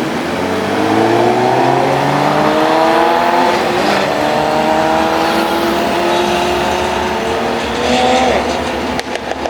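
Superbike engine accelerating hard, its revs climbing, briefly dropping at an upshift about four seconds in, then climbing again before easing off near the end.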